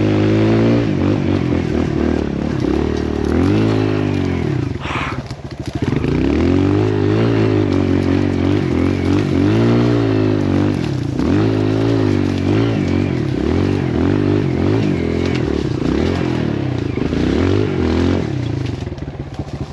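Kawasaki KLX140L dirt bike's single-cylinder four-stroke engine being ridden in second gear. The revs rise and fall over and over, with a brief drop in throttle about five seconds in.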